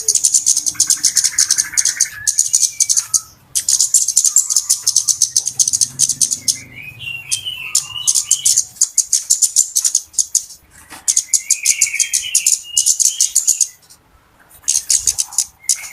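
Flowerpecker (cabe-cabean, locally kemade) calling as a trapping lure, in the busy calling style the lure is named for. The calls come in bursts of very rapid, very high-pitched ticking, each a few seconds long with short breaks between them. Lower chirps fall in the gaps.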